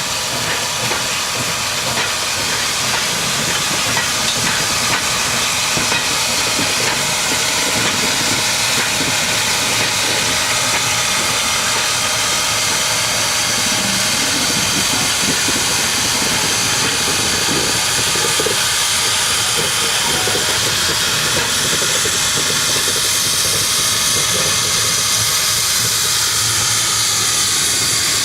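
Narrow-gauge train on the move, a loud, steady hissing noise throughout.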